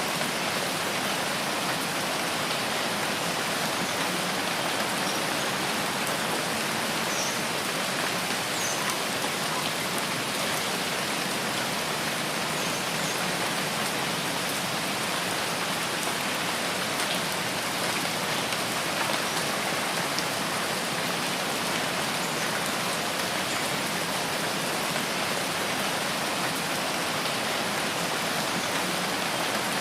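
Steady rain falling, a dense even hiss of drops that holds at one level throughout.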